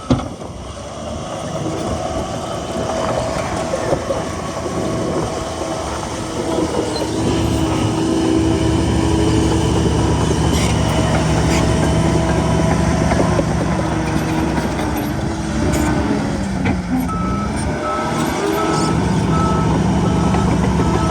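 Heavy diesel earthmoving machinery working, its engine running steadily with a dip and recovery in pitch near the end. A reversing alarm starts beeping near the end, at about two beeps a second.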